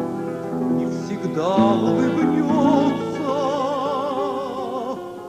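Female contralto singing a slow Russian romance with instrumental accompaniment, holding long notes with a wide vibrato; she moves up to a new held note about a second and a half in.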